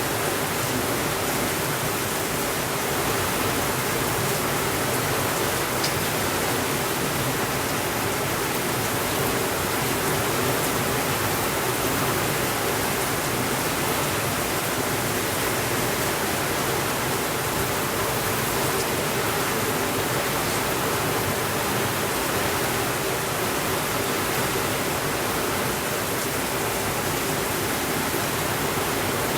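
Steady rainfall, an even unbroken hiss with no thunder.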